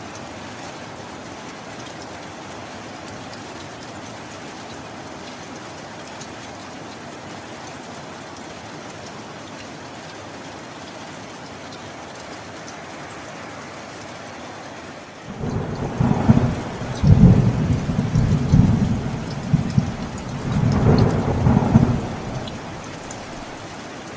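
Steady heavy rain, then a clap of thunder that breaks in suddenly about two-thirds of the way in and rolls for around seven seconds, with a second swell before it dies back into the rain.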